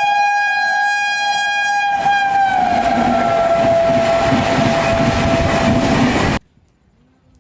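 Locomotive horn blowing one long held chord as an express train passes at speed. The horn's pitch drops about two and a half seconds in as it goes by, under a loud rumble of the train, then the sound cuts off suddenly.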